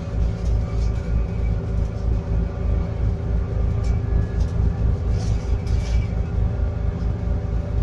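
Scania N280UD biogas double-decker bus's engine running at a steady speed while the bus drives, a low pulsing rumble heard from inside the bus, with a few brief rattles near the middle.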